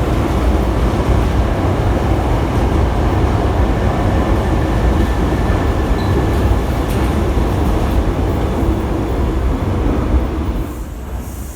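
Hankyu electric train pulling out of the station: a loud, steady rumble of motors and wheels on rail that falls away about ten and a half seconds in as the train moves off.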